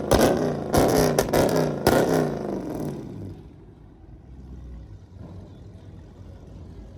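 A car engine revved hard several times, the pitch jumping up and falling back with sharp loud cracks between blips. About three seconds in the revving stops and the sound fades to a low rumble.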